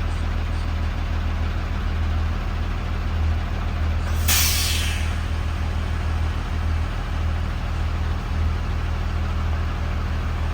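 2020 Blue Bird Vision school bus running with a steady low engine drone, and a single sharp hiss of air from the air brakes about four seconds in, fading out within a second.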